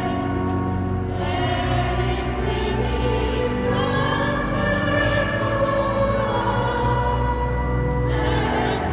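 Choir singing slow, sustained sacred music in a cathedral, the chords held and changing gradually over a steady low bass.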